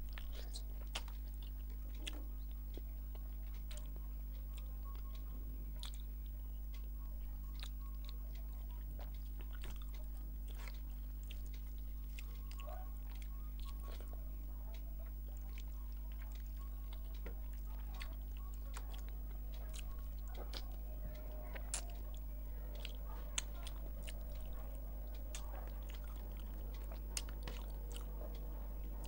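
Close-miked chewing and biting while eating fish head curry and rice by hand, with many short wet mouth clicks and smacks throughout. A steady low electrical hum runs underneath.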